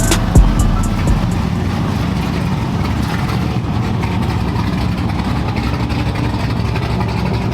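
Truck engine running steadily with a low rumble, after two sharp loud thumps in the first half second.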